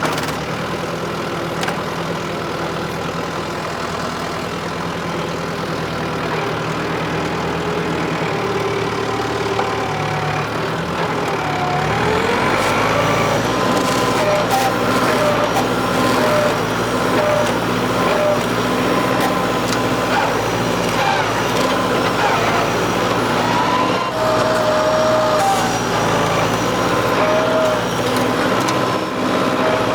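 New Holland WorkMaster 55 tractor's diesel engine running under load as its front-loader stump bucket grapple works at tree roots. About twelve seconds in the engine speeds up and runs harder, with a whine that rises and falls over the engine note.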